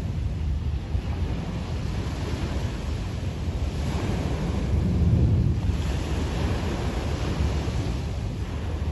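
Sea waves washing onto a beach, with wind buffeting the microphone and adding a low rumble. The wash swells louder about five seconds in, then eases.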